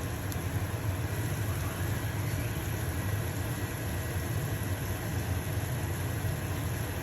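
Stove-top range hood fan running with a steady low hum, over the light sizzle of a pancake frying in a pan.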